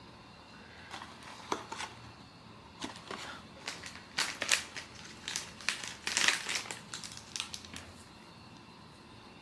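Blind-box packaging crinkling as it is handled and opened: a run of irregular crackles from about a second in until about eight seconds in, loudest near the six-second mark.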